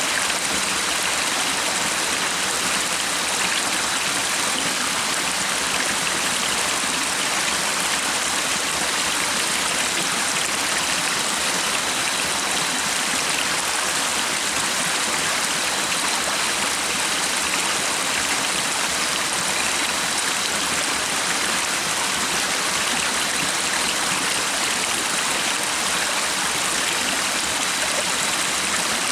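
Water of a stream running steadily, an even, unbroken rush of flowing water.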